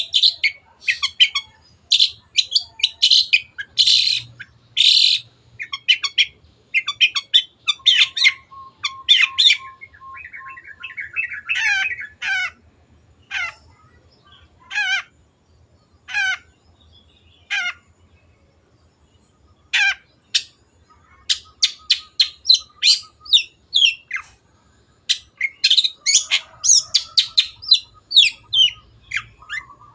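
Long-tailed shrike (cendet) in full song: fast runs of sharp, chattering notes, thinning midway to single calls about a second apart, then quickening again near the end.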